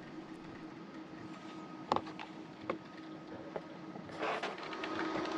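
Low steady hum with a few light clicks. About four seconds in, a drip coffee maker starts gurgling and hissing as it brews.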